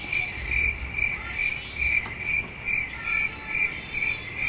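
Cricket chirping sound effect: a steady run of short high chirps, about two and a half a second, over a low hum, both cutting in and out abruptly.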